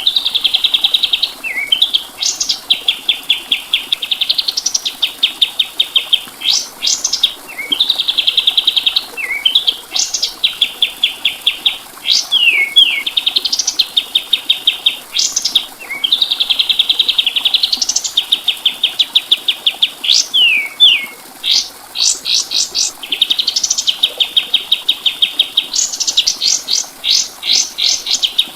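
White-shouldered triller (kapas tembak) singing almost without pause: high-pitched phrases of fast, rattling trills broken by quick rising and falling sweeps, each phrase lasting one to three seconds.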